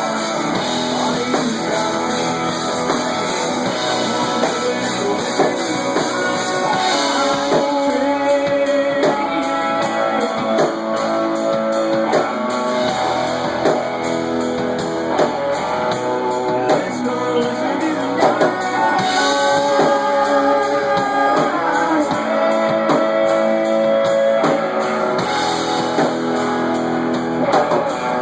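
Rock band playing live: guitars and drum kit, with a singer.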